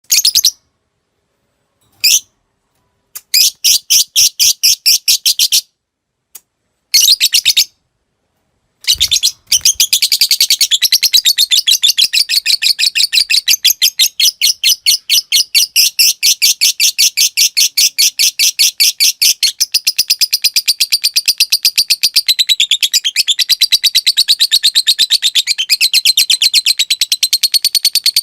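Lovebird calling: a few short chirps, then bursts of rapid clicking chatter, then from about ten seconds in one long unbroken rapid chattering trill, the long 'ngekek' of a singing lovebird.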